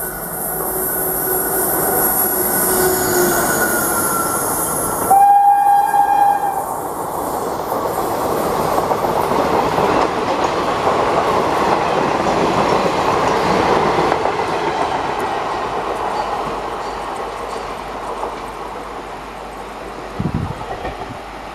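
Indian Railways electric locomotive sounds one long horn blast about five seconds in, then the passenger coaches rush past with wheels clattering over the rail joints, the noise slowly fading as the train draws away. A couple of short thumps near the end.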